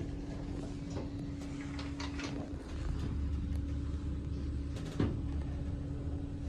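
Schindler 5500 machine-room-less lift car travelling between floors: a steady low rumble with a faint hum, the rumble growing stronger about two and a half seconds in, and a single sharp knock about five seconds in.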